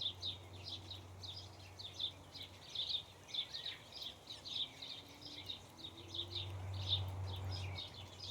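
Backyard songbirds chirping continuously: short, high chirps several times a second. A steady low hum runs underneath and swells a little near the end.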